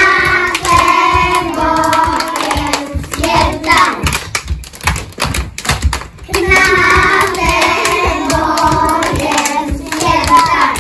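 A group of young children singing together while clapping their hands along; two long sung phrases with a short break about four seconds in.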